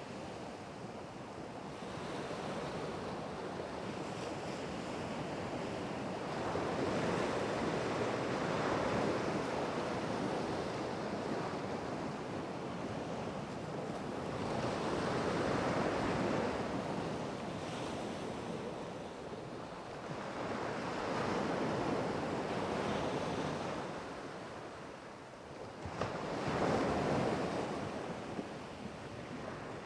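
Ocean surf breaking and washing on the shore, swelling and fading in slow surges every several seconds, with wind on the microphone.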